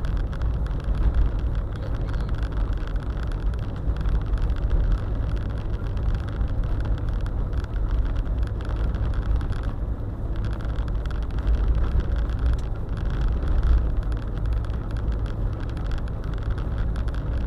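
Steady low rumble of a car driving, engine and tyre noise running evenly.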